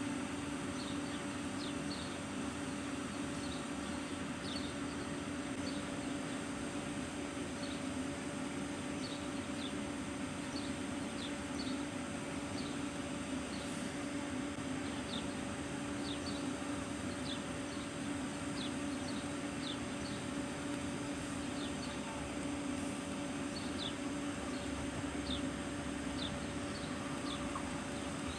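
Small birds chirping often, in short falling notes, over a steady low mechanical hum.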